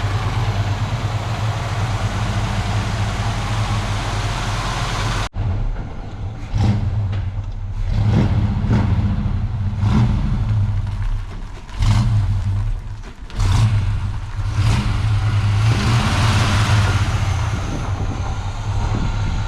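The engine of a 1984 Chevy C20 pickup running, just revived after two years of sitting. There is a sudden break about five seconds in, after which it keeps running with its level rising and falling.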